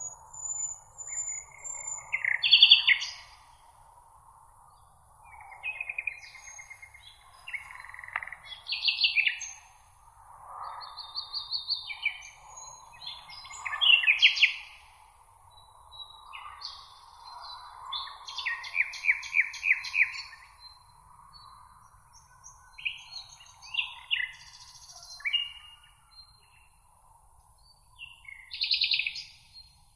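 Several songbirds singing in a meadow, with overlapping chirps, whistled phrases and fast trills coming every second or two. A steady soft hiss runs underneath.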